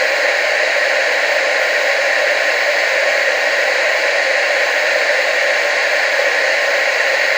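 Steady television static hiss, unchanging throughout, with most of its energy in the mids and highs and almost nothing in the bass.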